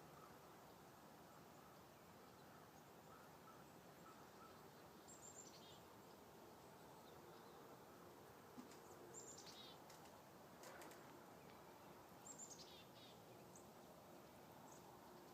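Quiet outdoor background with a small bird calling three times, each call a quick, high series of notes falling in pitch, and a few faint single chirps near the end.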